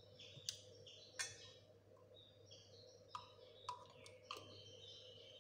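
Faint chirping of small pet birds, with several sharp plastic clicks from a dropper bottle being handled; the loudest clicks come about half a second and a second in.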